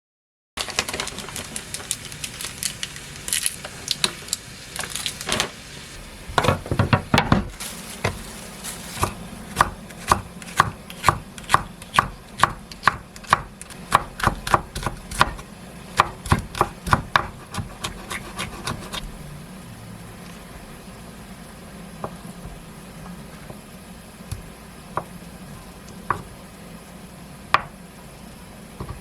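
Kitchen knife chopping food on a wooden cutting board in steady strokes, about two a second, for roughly a dozen seconds, then a few single taps.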